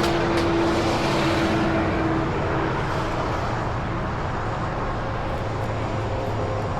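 A motor runs steadily, giving a continuous hum. A higher tone in it fades away about two and a half seconds in.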